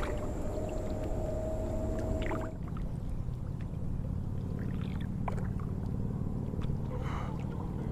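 Ambient sound on a kayak on the water: a steady low rumble with a few small clicks and knocks. A faint steady tone stops about two and a half seconds in.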